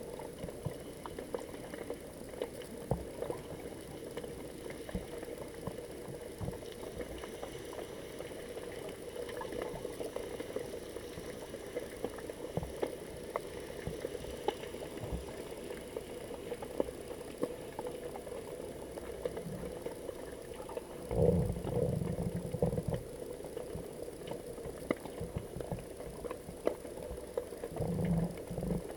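Underwater sound picked up by a GoPro in its waterproof housing: a steady muffled hiss full of small crackling clicks, with a louder low rumble of water movement about 21 seconds in and again near the end.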